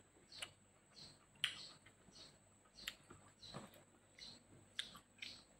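Quiet close-up chewing: wet lip smacks and mouth clicks, irregular, about two a second.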